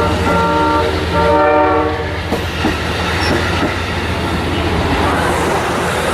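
Train air horn sounding a chord in two short blasts in the first two seconds, over the steady low rumble of a train. A few sharp clicks of wheels over rail joints follow.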